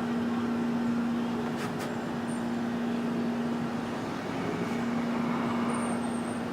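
Steady mechanical hum with a constant low drone over outdoor background noise, and a brief faint high chirp near the end.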